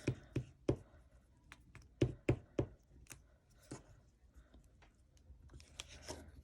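Hands handling paper pieces on a tabletop: a series of light taps and knocks, three quickly in the first second, three more around two to three seconds in, then scattered softer ones.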